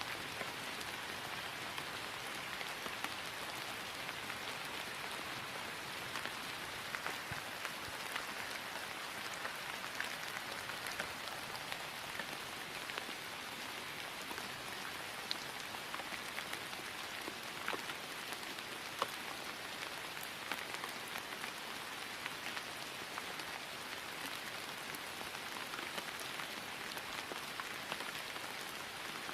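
Steady rain falling on grass, an even hiss dotted with the light ticks of individual drops.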